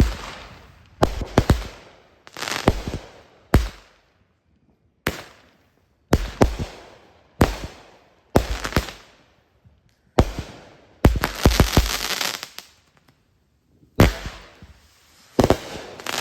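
Consumer fireworks going off: a string of about a dozen sharp bangs at uneven intervals, each followed by a brief crackle, with a denser cluster of bangs around the middle and short quiet gaps between.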